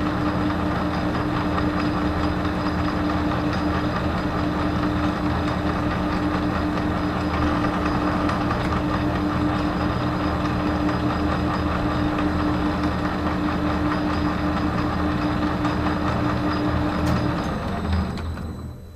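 Metal lathe running with a steady hum while a tool cuts a small thread-relief groove in the turned part; the lathe is switched off and stops near the end.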